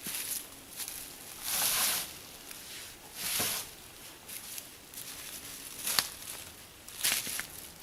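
Slow footsteps rustling through dry leaves and brush, two swishing steps in the first half, then a few sharp twig-like clicks near the end.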